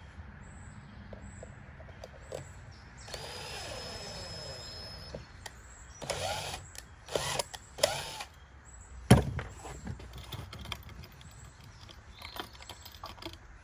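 Cordless drill driving a screw: one steady run of about two seconds with a high whine, then two short bursts about a second apart. A sharp knock follows a little later.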